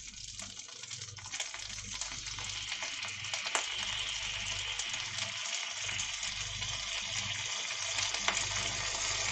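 Rice and meat sizzling in a small cast-iron skillet, with small crackles and pops. The sizzle grows louder from about three seconds in as a dark sauce is poured onto the hot food.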